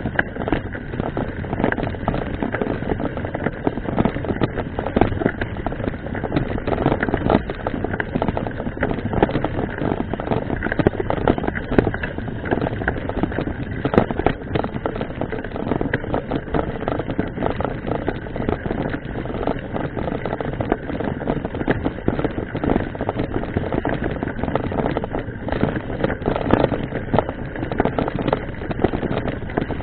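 Mountain bike ridden over rough ground: continuous rattling and knocking from the bike, with tyre noise.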